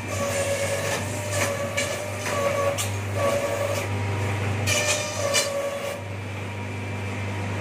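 Wood slicer-planer machine running with a steady low hum. About five short whines with a scraping edge rise over it in the first six seconds, then it settles back to the hum alone.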